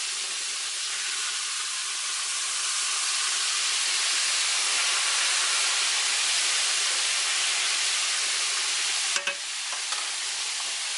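Flour-coated pork chops frying in hot vegetable oil in a cast-iron skillet: a steady sizzling hiss as they brown. A short knock about nine seconds in.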